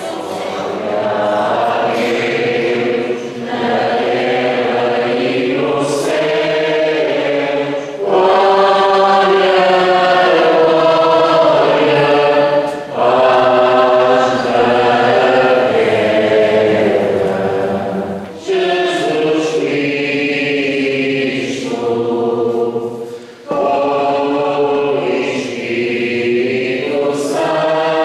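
Choir singing a hymn at mass, in long held phrases with short breaks between them about every four to five seconds.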